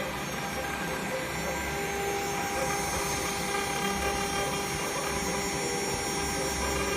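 CNC engraving machine running, its spindle giving a steady whine made of several high tones over a low hum that swells and fades.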